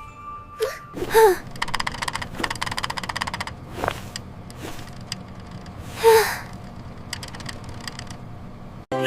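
Cartoon sound effects: two short squeaky vocal sounds that fall in pitch, about five seconds apart, with a run of rapid clicking between them over a low steady hum.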